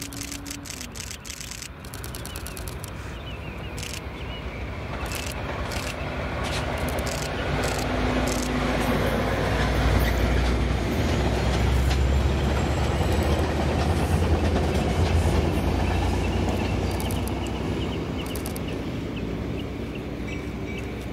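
A train passing by: a rising rumble and rail noise that peaks about halfway through, then fades as it moves away.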